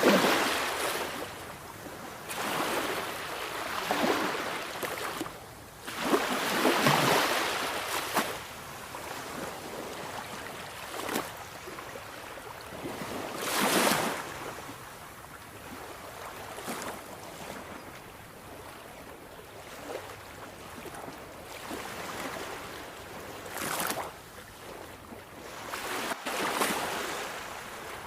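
Sea waves breaking and washing in, a hiss of surf that swells and fades every few seconds; the biggest surges come about seven seconds in and again near fourteen seconds.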